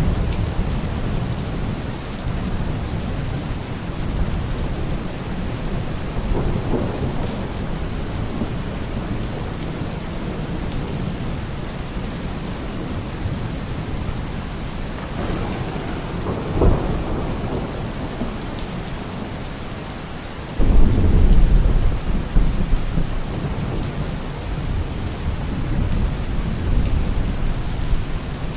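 Steady rain with rolling thunder in a thunderstorm. There are low rumbles about six and sixteen seconds in, and a sudden loud clap of thunder about twenty seconds in that rumbles on for several seconds.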